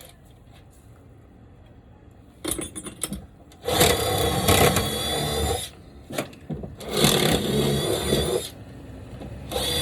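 A few light clicks, then a power drill runs in bursts of about two seconds with short pauses between.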